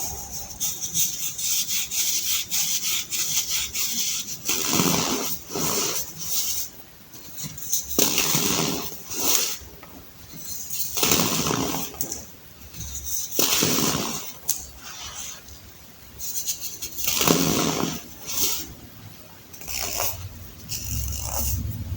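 Clumps of baking soda being crushed, crunching and crumbling with a dense crackle of grains, with a louder crunch every few seconds.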